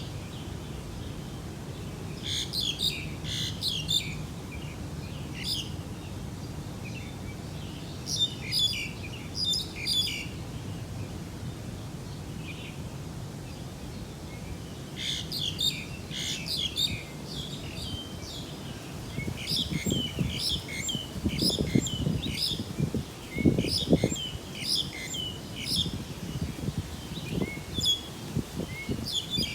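Small birds chirping in bouts of quick, high twitters, over a steady low rumble that swells in gusts in the second half.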